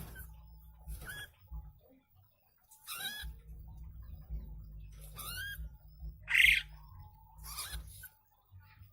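Small animal giving five short, high squeaky calls about every one to two seconds, the loudest about six and a half seconds in, over a low rumble.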